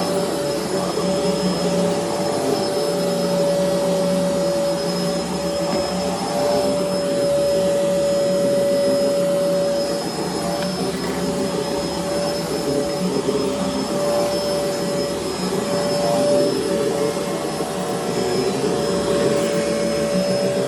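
Bissell Helix vacuum cleaner running steadily, its motor giving a constant whine.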